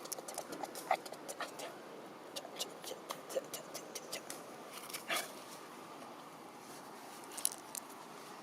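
Many light, scattered clicks and taps with a few short, faint squeaks, from a baby monkey being handled.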